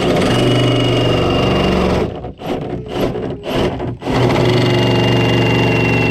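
Turbocharged S550 Mustang engine on its first start-up, running rough. It runs steadily for about two seconds, stumbles and nearly dies, then picks up and runs steadily again, with a thin high whine over it.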